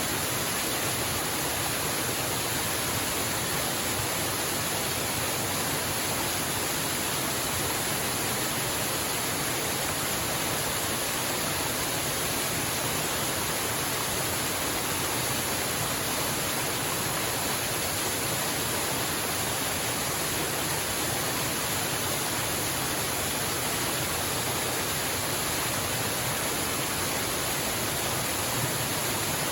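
Waterfall: water falling with a steady, unbroken rush.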